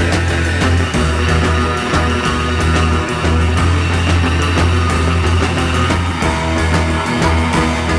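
Instrumental 1960s rock band music: electric guitar over a steady bass line and drums, with no vocals.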